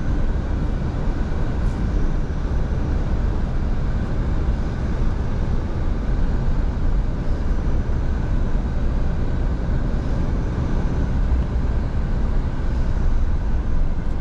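Scania V8 diesel truck cruising at a steady speed: an even, low engine drone mixed with road and tyre noise, with no change in pitch.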